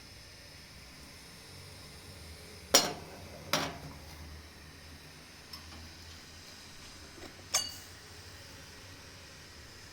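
Metal parts of a cast iron stove being handled: three sharp clinks with a short ring, two close together about three seconds in and one more near eight seconds.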